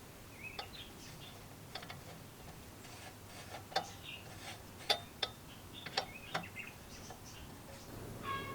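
Irregular sharp clicks and light taps, with the loudest few around the middle, and a few faint short chirps between them.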